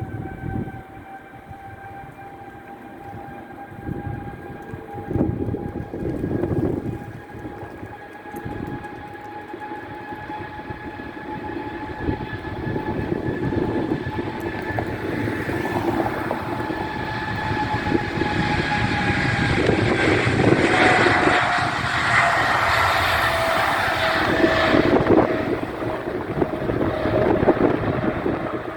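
Boeing 777-200ER twin-engine jet passing: a steady turbofan whine of several tones that drop slightly in pitch as it goes by, under a jet roar that builds to its loudest about two-thirds of the way through. Wind gusts on the microphone.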